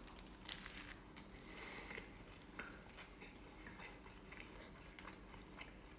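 Faint biting and chewing of a toasted sub on crispy bread, with scattered soft crunching clicks.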